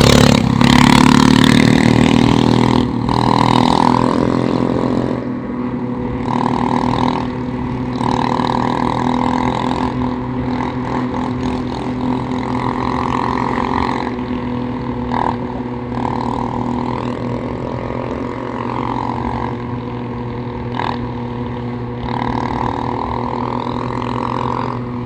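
Small motorcycle engine running under way at a steady speed, loudest in the first few seconds, with wind gusting on the microphone on and off.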